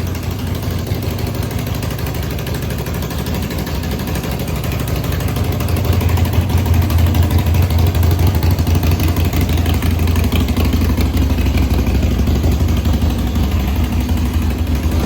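Harley-Davidson Sportster Iron 883's air-cooled V-twin engine running, getting louder about six seconds in.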